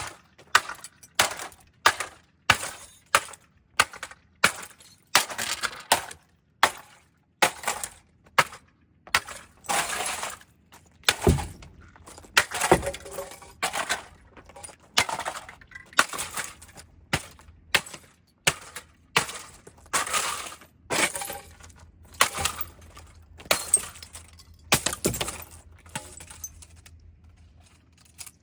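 A robot vacuum cleaner being smashed with repeated hard blows, roughly one a second, each followed by clinks and rattles of breaking glass and broken pieces. The blows stop shortly before the end.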